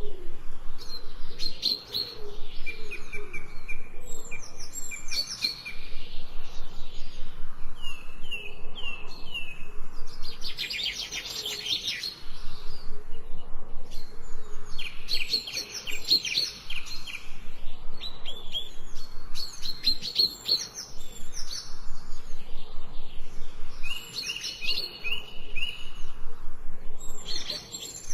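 Songbirds singing and chirping in bursts of rapid high notes and short trills, phrase after phrase with brief pauses between.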